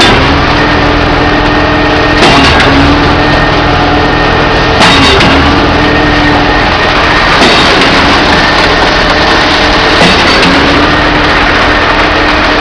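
Truck-mounted concrete pump running under a steady engine and hydraulic hum. A sharp clunk comes about every two and a half seconds as the pump changes stroke, pushing concrete through the line.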